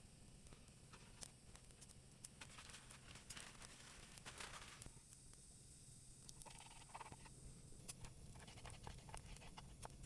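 Near silence, with faint scratching and scattered light clicks.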